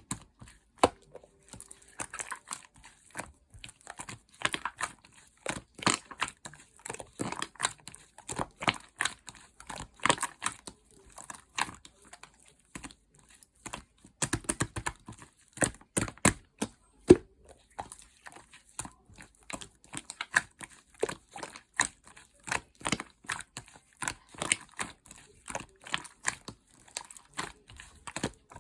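Slime being squeezed, stretched and poked by hand, giving an irregular, fast run of sharp clicks and pops.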